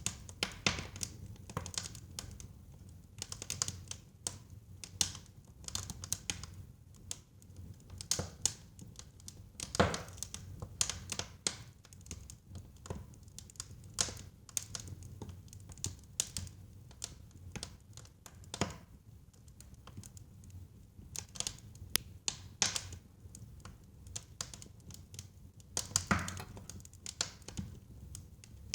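Wood fire burning in a fireplace: irregular crackles and sharp pops over a low steady rumble of the flames, with the loudest pops about ten seconds in and again near the end.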